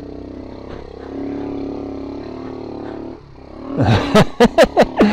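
Romet Ogar 202's small single-cylinder four-stroke engine running steadily as the bike is ridden. The note gets louder about a second in and drops away about three seconds in.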